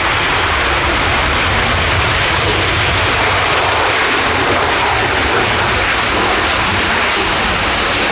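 Jet aircraft engines running loud and steady, an even rushing noise with no distinct tones.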